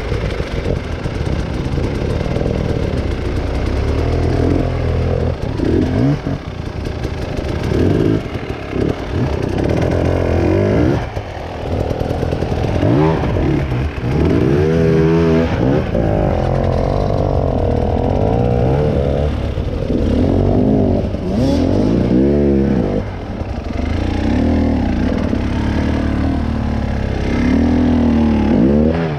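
Engine revving up and down repeatedly under load, its pitch rising and falling many times with short dips between, as on an off-road climb.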